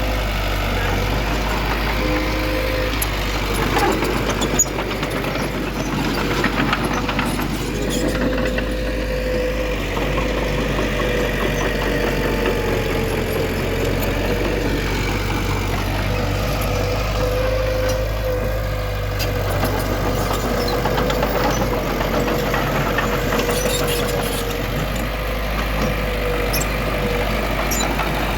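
Heavy diesel earthmoving machinery running steadily, with a constant whine over the low engine rumble. A single sharp clank comes about four and a half seconds in.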